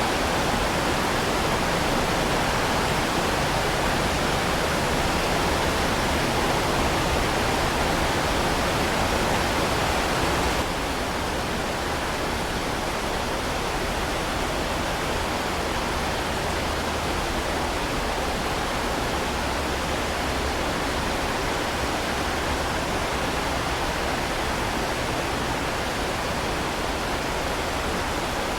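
Heavy rain falling steadily, a dense even hiss. About ten seconds in it drops suddenly to a slightly quieter, duller hiss and carries on evenly.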